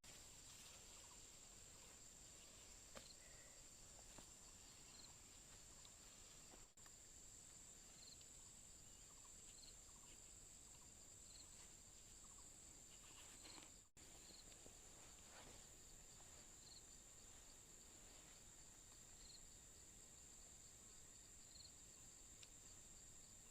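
Faint, steady high-pitched insect trilling, with short high chirps every couple of seconds.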